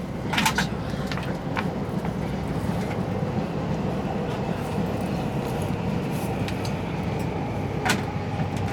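Steady low mechanical rumble with a faint steady whine above it, and a few sharp clicks, the loudest about half a second in and near the end.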